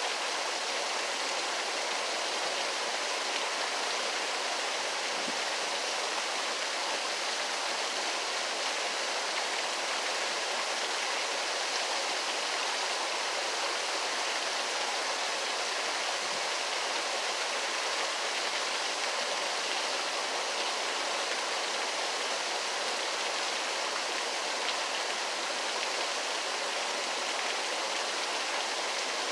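Waterfall: a steady, unbroken rush of falling water, a bright hiss with little low rumble.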